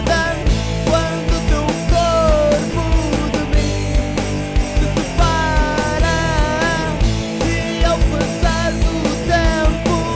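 Rock band demo recording playing a full-band passage: steady drum hits and a low bass part under a lead melody line that bends and slides in pitch.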